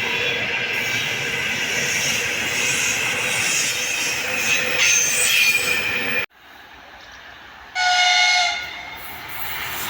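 A train passing at speed, a steady rush of wheels on the rails that cuts off abruptly about six seconds in. Near the end a train horn sounds once, for about a second.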